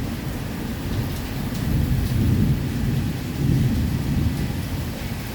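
Thunder rumbling over heavy rain, the low rumble swelling twice, about two seconds in and again near four seconds.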